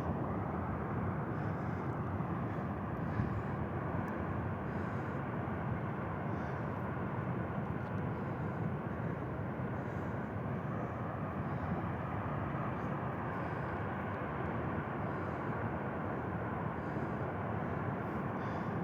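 Avalanche rumbling: a steady, continuous roar of snow and ice pouring down the mountainside, even in strength throughout.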